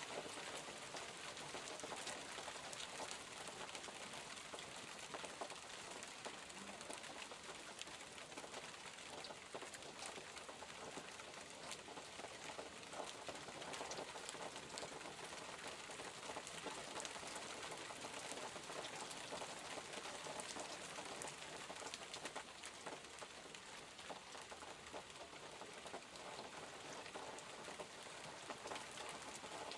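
Steady rain falling, a dense patter of fine drops on surfaces that holds an even level throughout.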